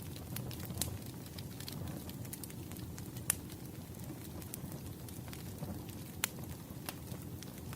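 Firewood burning, crackling steadily over a low rumble, with scattered sharp pops; the loudest pops come about three and about six seconds in.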